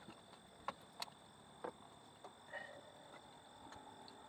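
Faint, sparse clicks and light taps of hands handling engine wiring and connectors, three sharp ones in the first two seconds, over quiet background hum.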